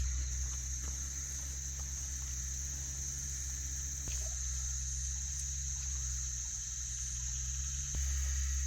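Insect chorus droning steadily at a high pitch over a low rumble, with a couple of faint clicks.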